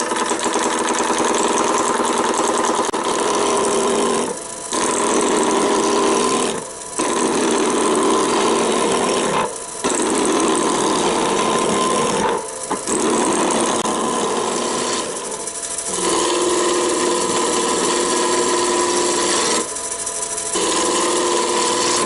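Roughing gouge cutting a spinning piece of Irish elm on a wood lathe: a loud, continuous rasp over a steady whine, broken by six short breaks as the tool comes off the wood between passes.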